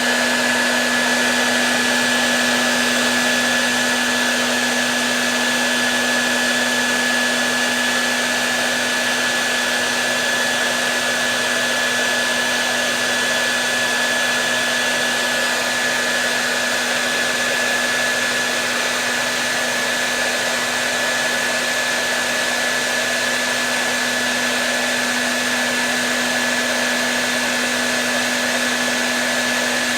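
Hair dryer running steadily with no change, a rushing blow of air over a low motor hum and a thin high whine.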